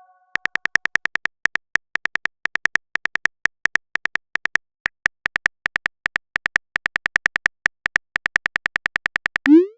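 Phone-keyboard typing sound effect: a fast run of short, identical high clicks, about six a second, with brief pauses between bursts. Near the end comes a quick rising pop, a message-sent sound.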